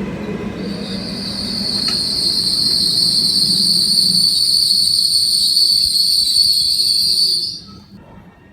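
Train brakes squealing: one loud, steady, high-pitched squeal over a fading low rumble as a train slows at the platform. The squeal cuts off suddenly about 7.5 seconds in, as the train comes to a stop.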